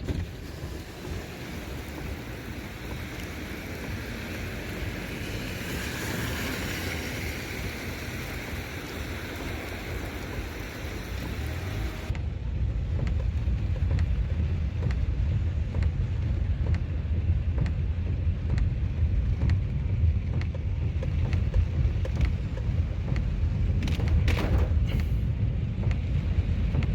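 Steady rain noise outdoors in a downpour. About twelve seconds in it cuts abruptly to a louder, deeper rumbling noise with less hiss.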